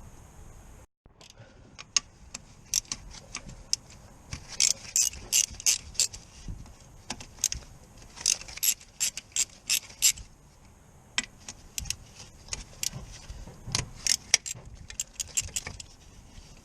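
Hand ratchet clicking in several runs of quick, evenly spaced clicks, about four a second, with short pauses between runs.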